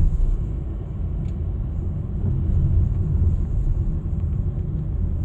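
Steady low rumble of a car driving on city streets, engine and tyre noise heard from inside the cabin.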